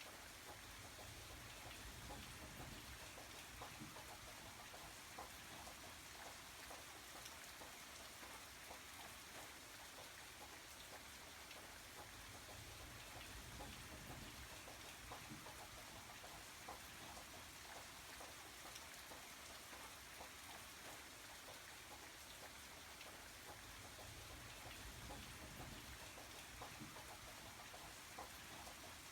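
Faint, steady rain falling, with many small drop ticks and a low rumble that swells and eases every several seconds.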